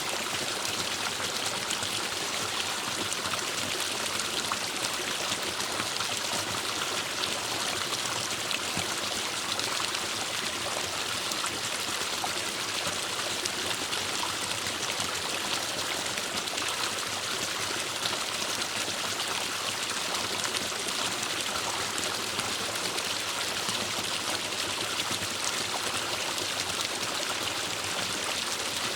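Forest stream flowing steadily over rocks, a continuous rushing and trickling of water.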